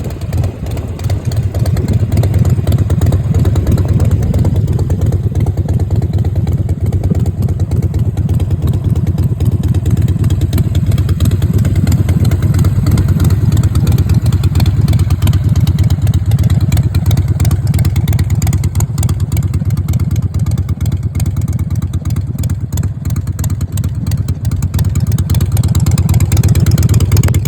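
Harley-Davidson Sportster V-twin engine running steadily, its exhaust a loud, deep, rapid pulsing.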